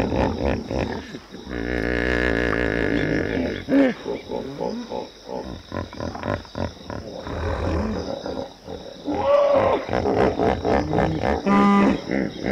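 Hippopotamus calls: a long wavering call about two seconds in, then shorter rising calls near the end, with water splashing as the hippo wades into the pool.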